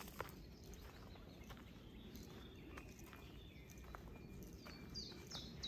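Faint woodland birdsong: scattered short high chirps and whistles from small birds, a little louder and busier near the end, over a low steady background.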